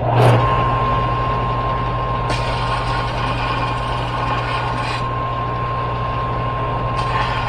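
A machine-tool motor starts and runs with a steady hum and a high whine. From about two seconds in, a hissing scrape lasts about three seconds, with a shorter one near the end, as a tiny burr is taken off the chamfered side of a freshly made washer.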